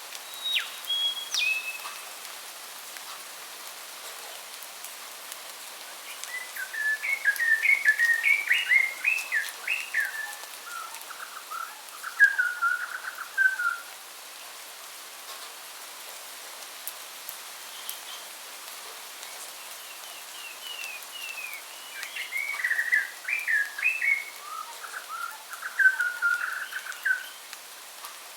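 A songbird singing: a few short whistles at the start, then two long warbling phrases of rapid notes, one near the middle and a similar one near the end, over a steady hiss.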